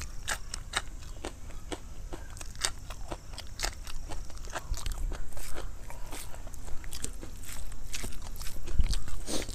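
Close-miked chewing and biting of rice and egg curry: a run of irregular mouth clicks and crunches, a louder cluster near the end.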